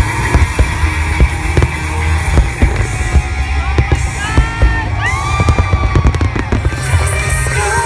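Fireworks going off in quick bangs and crackles over loud music with a heavy bass, with a few gliding tones about halfway through.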